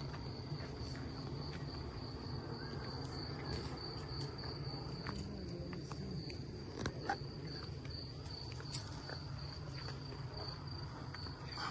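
Crickets chirping in a steady, even pulse over a low background rumble.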